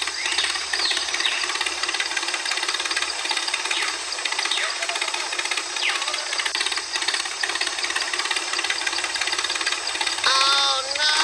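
Tractor engine running with a steady, rapid knocking chatter, with a short voice-like call about ten seconds in.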